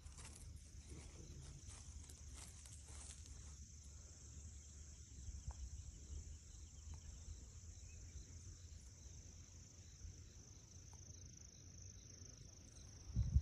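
Insects chirring as a steady high-pitched background chorus, over a low rumble, with some rustling in the first few seconds and a low thump near the end.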